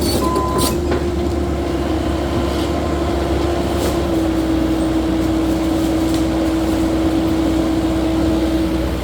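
Cat 308E2 mini excavator's diesel engine running under working load, with a steady hydraulic whine that steps slightly lower about four seconds in. A few clanks near the start.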